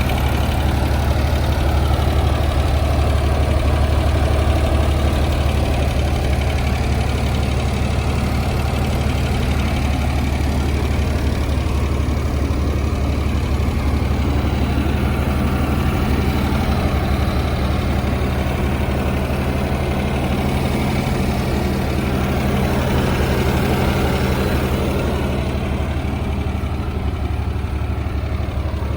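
Ford 3400 industrial tractor's engine idling steadily, growing slightly quieter near the end.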